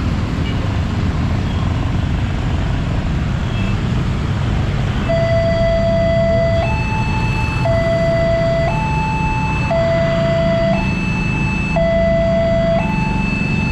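Electronic railway level-crossing alarm starting about five seconds in, alternating steadily between a lower and a higher tone, each held about a second, over a steady low rumble of traffic.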